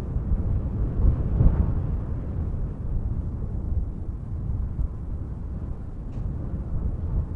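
Wind buffeting the microphone: a low, gusting rumble that swells about a second in, then runs on steadily.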